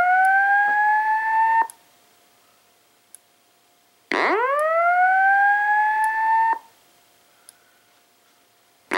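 Simplex 2902-9732 LifeAlarm fire alarm speaker sounding a whoop evacuation tone. Each sweep rises fast in pitch, levels off, and cuts off after about two and a half seconds. The sweeps repeat about every five seconds with quiet gaps between: one ends about a second and a half in, a full one comes at the middle, and the next begins at the end.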